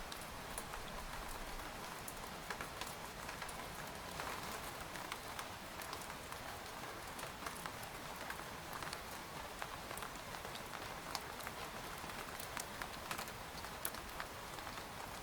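Steady rain falling on a tent, with many sharp individual drops striking the fabric scattered through an even hiss.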